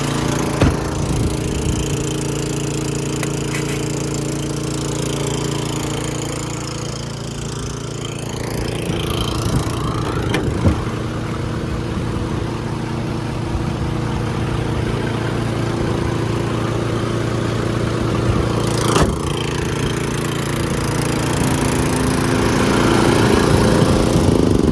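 Engine-driven air compressor on a mechanics service truck running steadily, with a few sharp clicks.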